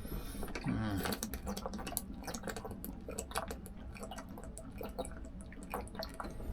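A person drinking water, with a run of small irregular clicks and gulps of swallowing.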